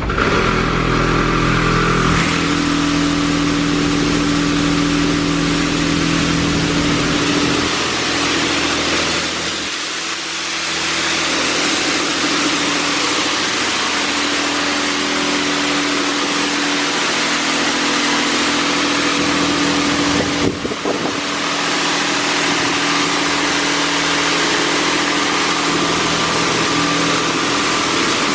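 Washworld High Velocity touchless car-wash machine spraying water at high pressure onto the car, with a steady pump-motor hum under the spray. The spray breaks off briefly, with a few clicks, about twenty seconds in, then resumes.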